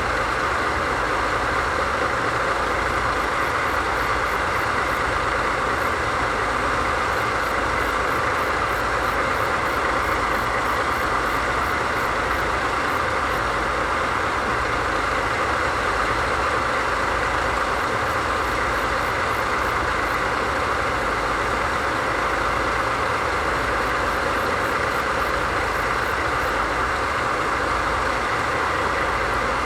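DD51 diesel-hydraulic locomotive's V12 diesel engines idling steadily, a low rumble under a constant whooshing hum.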